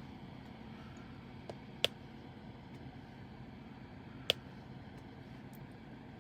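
Two sharp little clicks about two and a half seconds apart, from diamond-painting work with a drill pen picking up and setting down resin drills, over a faint steady hum.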